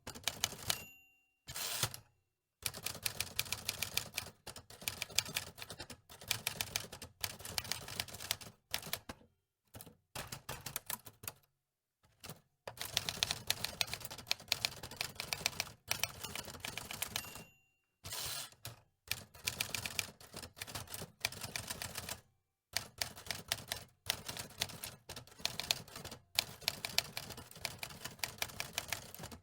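Manual typewriter being typed on: rapid clacking key strikes in runs of several seconds, broken by brief silences. A short ringing tone sounds about a second in and again past the halfway point.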